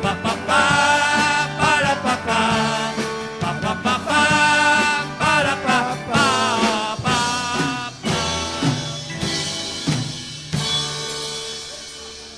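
A live band plays the instrumental ending of a pop-rock song, with drums and a wavering lead melody. About ten seconds in, a last chord is struck and rings down, fading away.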